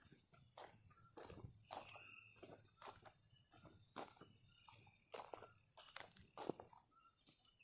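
Night rainforest insect chorus, a steady high-pitched buzzing and trilling, with frequent irregular soft clicks and rustles close by.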